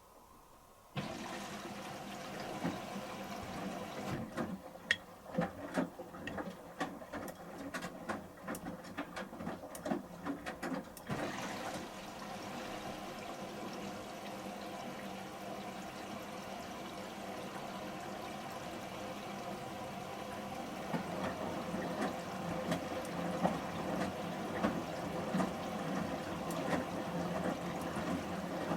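Samsung Series 5+ washing machine filling with water at the start of its wash cycle: the inlet flow starts suddenly about a second in and runs as a steady rush, with a spell of irregular splashes and clicks over the next several seconds.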